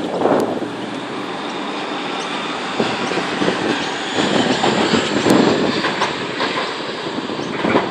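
NSW TrainLink Xplorer diesel railcar passing through the station, its wheels rumbling on the rails, with a faint thin high squeal above; the noise swells about halfway through.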